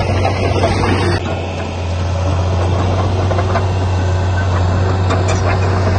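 Heavy diesel engine of construction machinery running steadily with a strong low hum, the sound changing abruptly about a second in.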